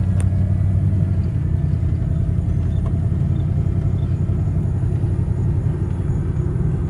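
Steady low rumble of a vehicle's engine and road noise, heard from inside the moving vehicle, with one short click just after the start.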